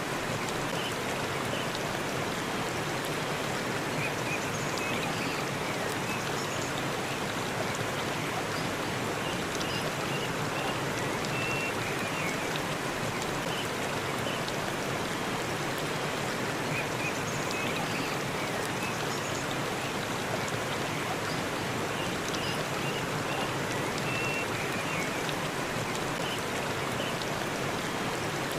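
Waterfall: a steady, even rush of falling water, with a few faint short high chirps over it now and then.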